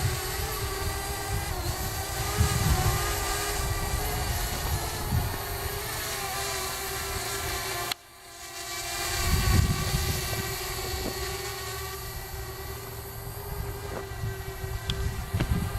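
Parrot Bebop quadcopter's rotors whining in flight, a steady pitched hum whose pitch wavers a little in the first half, with bursts of low rumble underneath. About halfway through the sound cuts out abruptly, then swells back with the rotor hum holding a steady pitch.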